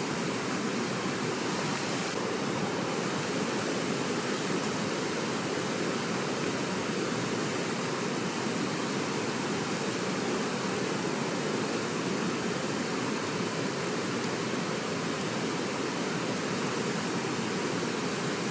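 Mountain stream flowing steadily.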